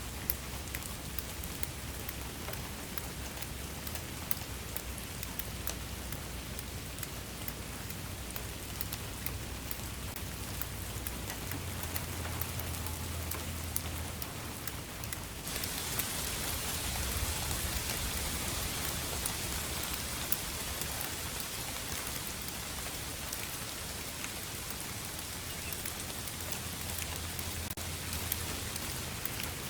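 Steady rain falling, its even hiss dotted with the ticks of single drops. About halfway through the hiss turns suddenly brighter and a little louder, and stays that way.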